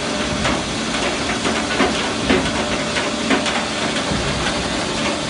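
Mobile Cambio ring debarker line running: a steady mechanical noise with irregular knocks and clatter as a log rolls along the infeed deck.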